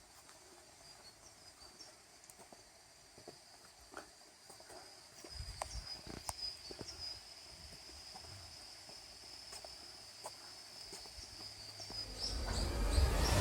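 Crickets chirring in one steady, high, faint shrill, with a few soft knocks and rustles around the middle. Music fades in near the end.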